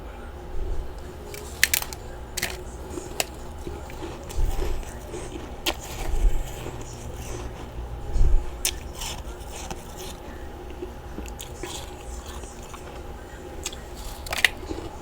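Close-up chewing and crunching of big chunks of freezer frost, irregular crisp crunches with a few heavier bites around the middle, over a faint steady hum.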